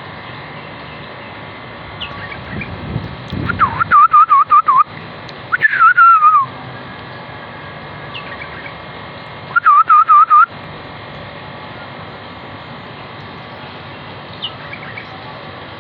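A bulbul singing close by: three loud, clear whistled phrases, two of them quick wavering warbles and one a falling slur, with a few faint short chirps between them.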